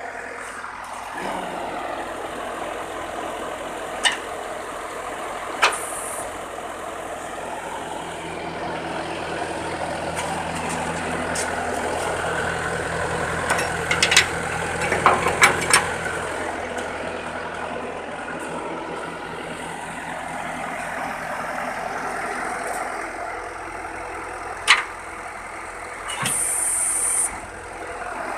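Scania 114C 380 truck's diesel engine idling steadily. Single metallic clanks sound now and then, with a quick rattle of several knocks about halfway through and a hiss of air lasting about a second near the end.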